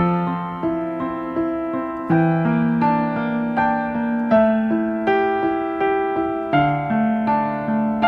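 Soft piano music: a slow melody of single notes over sustained bass notes that change every couple of seconds.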